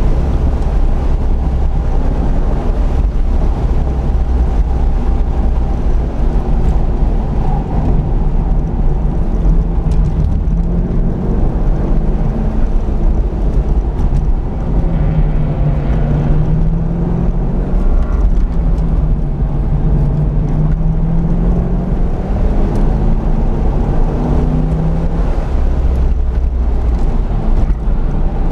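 C5 Corvette Z06's LS6 V8 engine under load on a track lap, heard from inside the cabin, its pitch rising and falling again and again as the car accelerates and slows for corners, over a constant low rumble.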